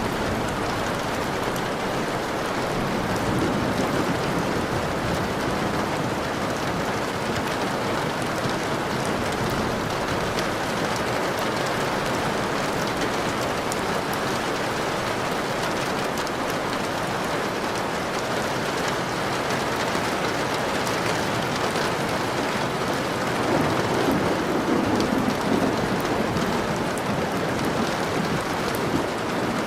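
Steady rain falling, an even hiss with a patter of drops. About three-quarters of the way through, a low roll of thunder swells up and fades.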